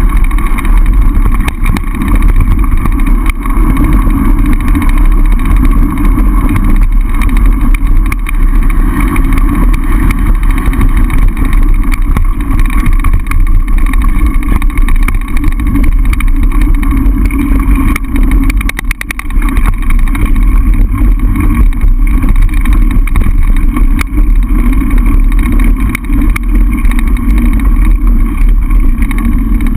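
Loud, steady wind rush buffeting the camera microphone, with tyre noise, as a mountain bike rides downhill, easing briefly about two-thirds of the way through.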